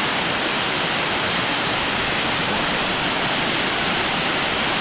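Waterfall rushing close by: steady, loud falling water with no change.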